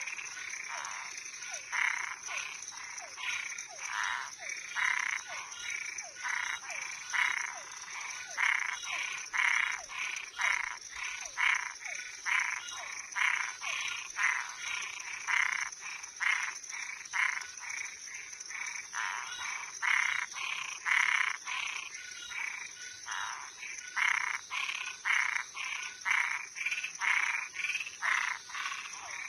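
Night chorus of frogs and tree frogs: short, rapidly repeated calls, about two a second, from several animals overlapping. Behind them runs a steady high-pitched trill of crickets.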